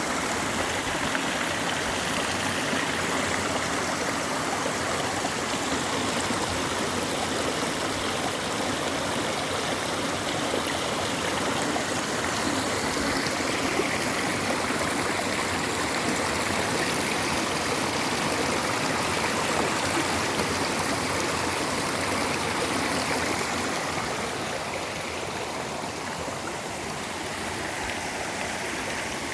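Mountain stream flowing steadily, a continuous rush of clear running water that eases slightly about twenty-five seconds in.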